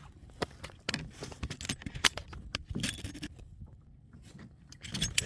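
Irregular clicks, knocks and scrapes of fishing gear being handled on a kayak while a fish is brought in.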